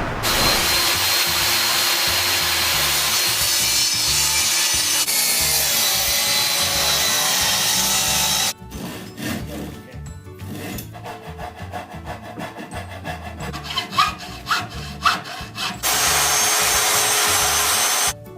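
A saw cutting out the outline of a wooden lawn gnome from a planed, sanded board. A long, even run of cutting for about eight seconds, then a quieter stretch of scraping and light knocks, then even cutting again near the end.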